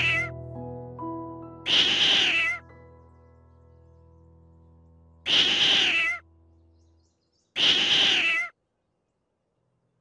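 Domestic cat meowing: three meows, each just under a second long, about three seconds apart, after the tail end of another right at the start. Soft held music notes play under the first meows and fade out about seven seconds in.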